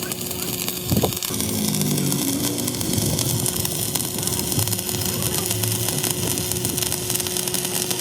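Machinery running in a metalworking shop: a steady hum under a dense noisy rush, with one sharp knock about a second in.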